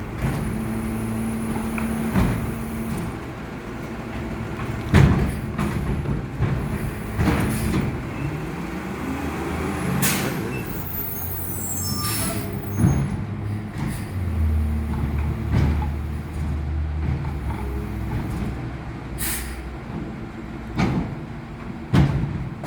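Garbage truck at work: its engine runs steadily, broken by about seven sharp bangs and clanks spread through.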